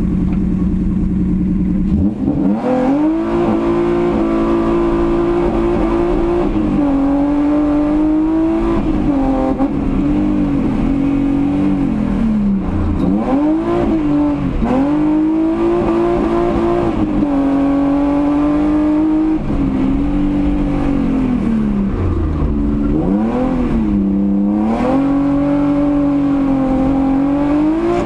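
BMW 320i E30 rally car's straight-six engine heard from inside the cabin. It is held at steady revs, then launches about two seconds in and is driven hard, the revs climbing and dropping again and again through gear changes and lifts.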